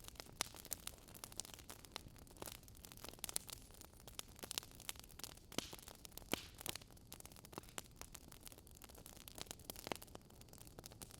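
Campfire burning with soft crackles: irregular sharp pops and snaps of burning wood over a faint steady hiss.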